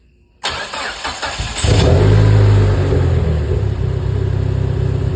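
Dodge Neon SRT-4's turbocharged 2.4-litre four-cylinder is cranked by the starter for about a second, catches with a loud flare, then settles into a steady idle. It is the first start on a freshly fitted stock turbo.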